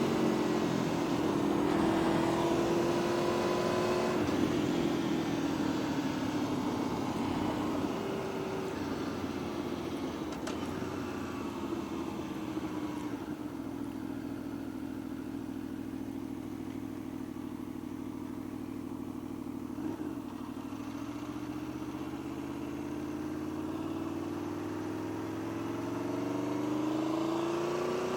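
Vehicle engine running, its pitch stepping up about four seconds in, sagging slowly through the middle, then climbing again over the last several seconds.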